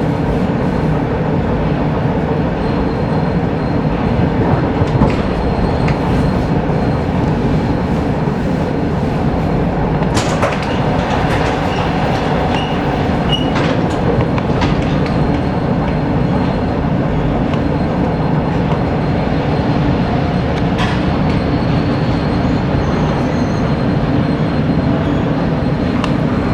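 ER2K electric multiple unit under way, heard from inside the passenger car: a steady loud rumble of wheels and running gear, with a few short sharp knocks.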